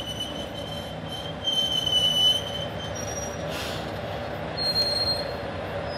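Tenryu Hamanako Railroad TH2100-series diesel railcar squealing as it slows into the platform: a steady high squeal for the first two seconds or so, loudest near two seconds, then shorter, higher squeals later on, over the low rumble of the running car.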